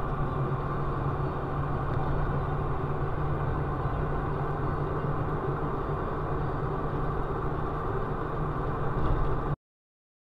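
Steady vehicle engine and road noise, such as a dashcam records in a moving car, with no clear impact; it cuts off suddenly near the end.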